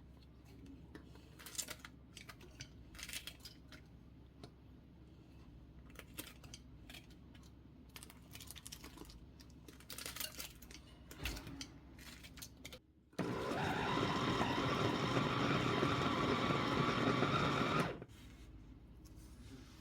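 Light kitchen clicks and knocks, then an electric blender runs for about five seconds, starting suddenly about two-thirds of the way in and cutting off abruptly.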